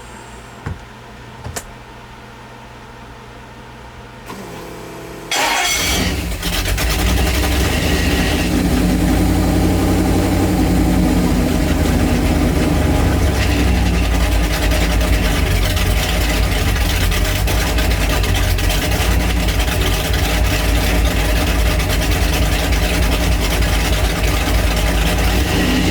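ATK HP94C-EFI engine starting: two short clicks, then the starter cranks about four seconds in, the engine catches a second later and runs steadily and loudly.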